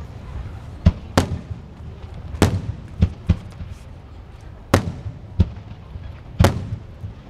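Aerial fireworks shells bursting: about eight sharp bangs at uneven gaps, some in quick pairs, each trailing off in echo.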